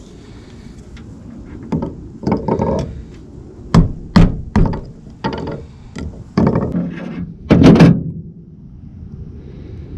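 Hammer blows knocking the old rear main seal out of its housing from a BMW E36 engine: a series of about a dozen irregular hits starting about two seconds in, the loudest near the end of the series.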